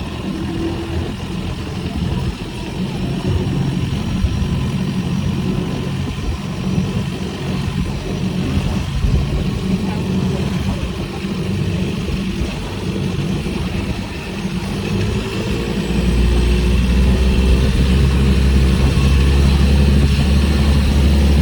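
Motorboat engine running steadily, then revving up and getting louder about three-quarters of the way through.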